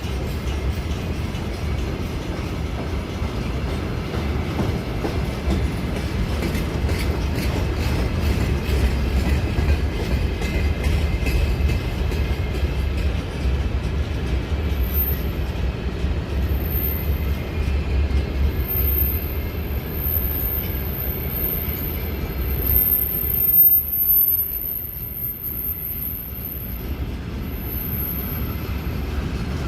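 A train running past on the rails: a steady low rumble of wheels and cars, swelling loudest about three-quarters of the way through, then easing off. A thin high whine runs through the second half.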